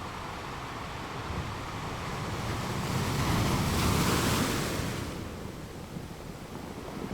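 Ocean waves breaking on a beach: the surf swells to one wave crashing about four seconds in, then washes back down to a low, steady hiss.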